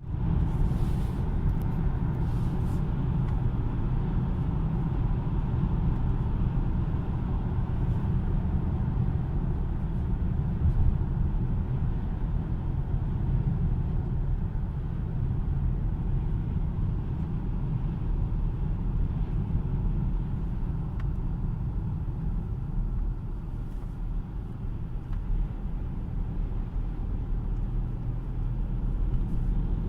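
Mercedes E-Class All-Terrain engine running steadily under the hood, a continuous low rumble.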